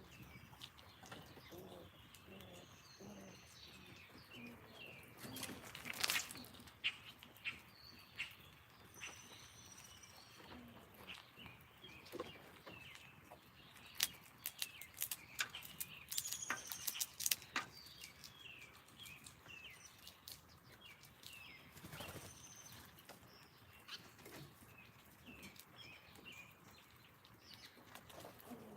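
Songbirds chirping and trilling outdoors, a steady run of short calls, with a few higher whistled notes. Sharp clicks and clatters stand out about six seconds in, in a busy cluster in the middle, and again near the two-thirds mark.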